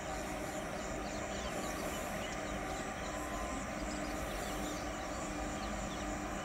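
Steady running noise of a WAP-4 electric locomotive and its passenger train approaching from a distance, an even rumble with a faint hum.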